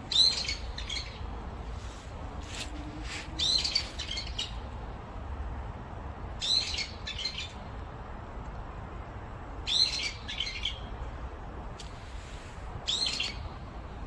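A bird singing a short, high, chirping phrase five times, about every three seconds, over a faint low background rumble.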